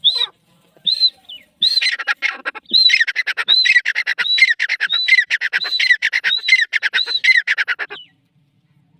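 Grey francoline calling: a few single shrill notes, then from about three seconds in a fast run of repeated ringing phrases that stops about eight seconds in.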